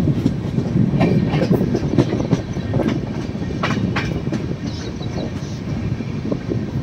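Indian Railways passenger coach running along the track, heard from beside its side: a steady rumble of wheels on rails with irregular sharp clicks and clacks, most of them in the first few seconds.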